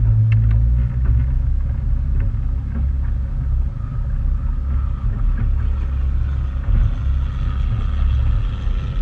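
Motorboat engine running steadily, a low rumble, with a faint higher whine coming in about halfway.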